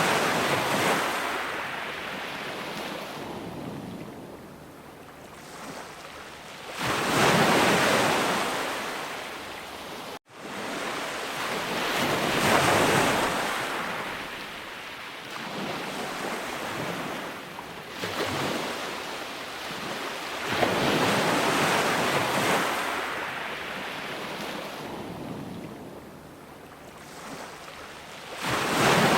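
Ocean surf: waves breaking and washing up, swelling and fading roughly every five to seven seconds. About ten seconds in the sound drops out for an instant, then starts again.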